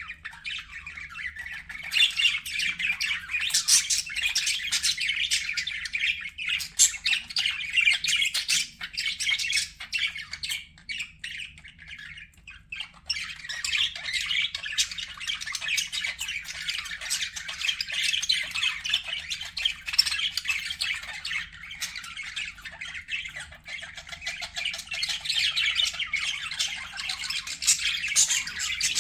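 Budgerigars chattering: a dense, continuous warbling chatter of chirps and short squawks from several birds, thinning briefly about twelve seconds in.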